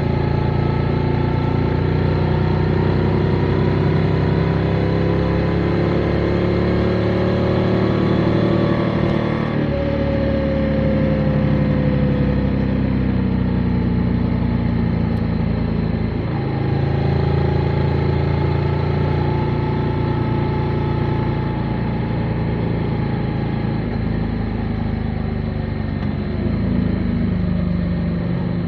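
Motorcycle engine running under way, its pitch climbing steadily for about nine seconds, then dropping suddenly at a gear change, and rising and easing off again through the rest.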